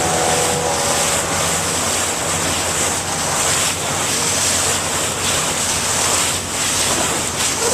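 Motorboat under way: a steady engine drone under wind buffeting the microphone and water rushing past the hull.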